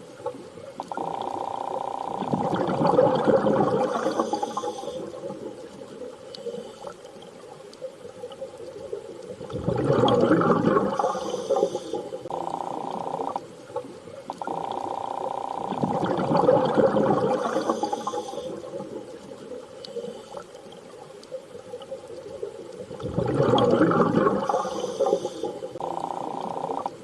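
Watery underwater ambience: a whooshing wash swells and fades about every seven seconds, four times, over a steady hum that drops in and out.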